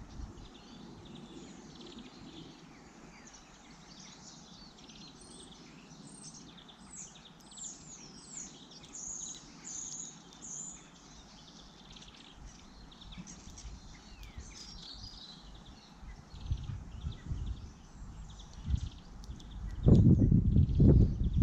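Garden birds chirping and twittering, with a busy run of quick, high, falling notes in the middle. Near the end, loud low thumps and rumbling close to the microphone.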